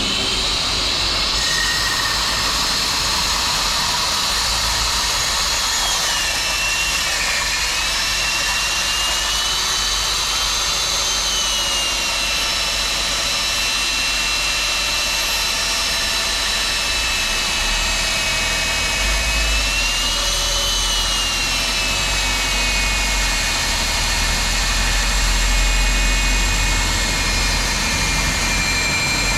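Core drill boring a 110 mm hole through a concrete wall: a steady, loud motor whine with high whistling tones that dip in pitch and recover a couple of times as the bit bears into the concrete.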